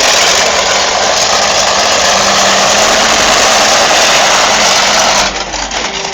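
The monster truck's 1500 brake horsepower engine running loud and steady, dropping suddenly about five seconds in.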